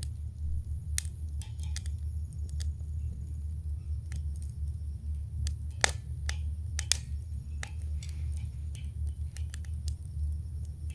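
Wood campfire crackling: irregular sharp pops and snaps over a steady low rumble, the loudest pop about six seconds in.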